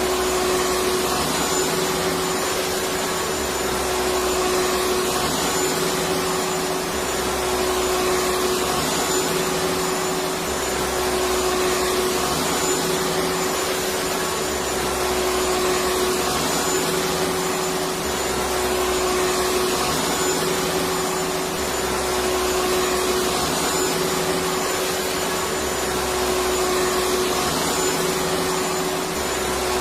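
Electric vacuum cleaner running continuously, a steady rushing air noise with a constant whine and a faint low throb that comes and goes every few seconds.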